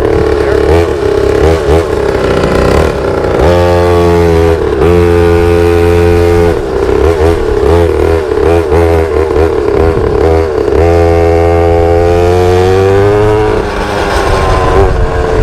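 Pit bike engine running during a ride, the revs rising and falling as the throttle is worked, held steady for a few seconds about a quarter of the way in and again after about two-thirds.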